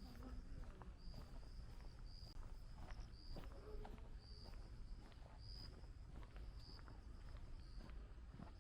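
Faint insect call, a high chirp repeating about once a second, with soft footsteps on a path.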